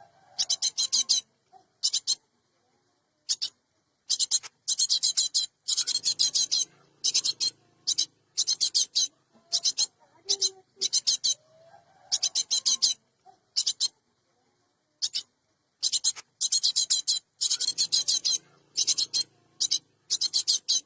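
Cinereous tit (gelatik batu) giving harsh, rapid chattering calls in repeated bursts of quick notes, separated by short pauses.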